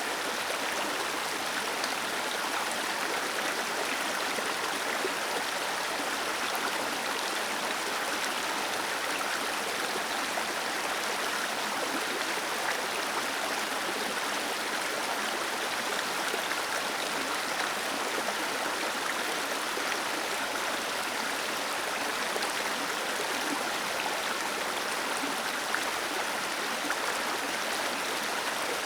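Small waterfall splashing and rushing steadily over rocks, an even unbroken wash of falling water with little deep rumble.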